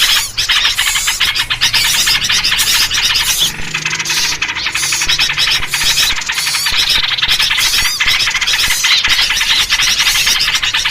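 A dense, continuous chorus of small songbirds chattering and scolding all at once, the agitated 'noisy bird' calling used as a lure, with yellow-vented bulbul (trucuk) calls among it. The rapid chirps and squeaky notes pile over one another with no pause.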